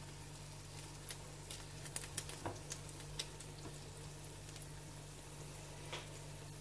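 Egg-dipped bread slices frying in a pan: a soft, steady sizzle with scattered crackles and pops, thickest between about one and three seconds in, over a steady low hum.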